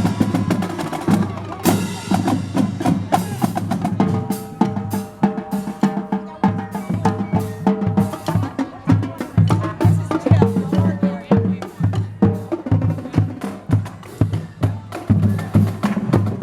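Marching drums from a parade band: rapid snare-drum strokes and rolls over steady bass-drum beats, with a few held melody notes for a few seconds in the middle.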